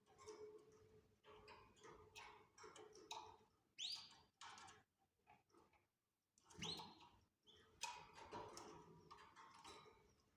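Canaries calling faintly: scattered short chirps and clicks, with two louder rising calls about four and seven seconds in.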